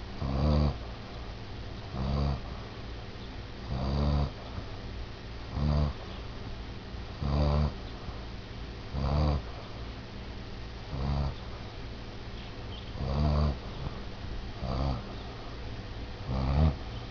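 Basset hound snoring in its sleep: about ten short, pitched snores at a steady rhythm, one every second and a half to two seconds.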